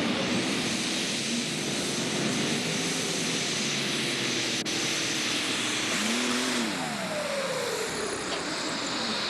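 Competition pulling tractor's engine running flat out during a pull, a loud, dense noise with a high whine. About six seconds in, the engine pitch rises briefly and then falls away as the revs drop, and a high whine slides slowly downward near the end.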